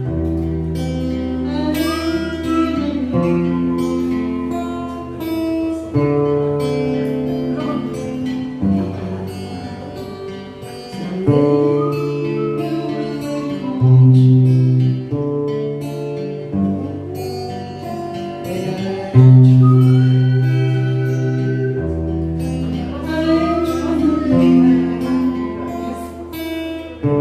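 Acoustic guitars playing a song over a low bass line, with the chords changing every couple of seconds.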